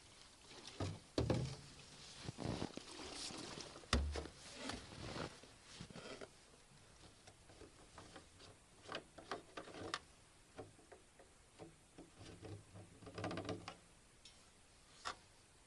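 Irregular knocks and clicks with a few dull thumps, the loudest about four seconds in.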